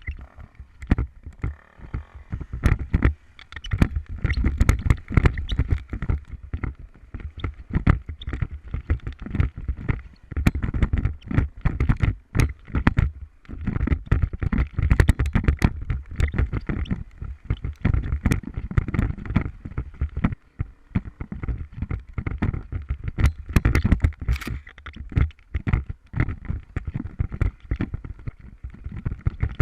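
Motorcycle riding over rough ground, heard from a camera mounted on the bike: the engine runs under a constant stream of knocks and rumbling jolts.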